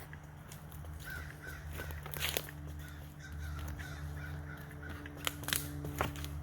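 A bird, likely a crow, calling in a run of about ten short repeated notes, with several sharp snaps and clicks scattered through, loudest later on, over a steady low hum.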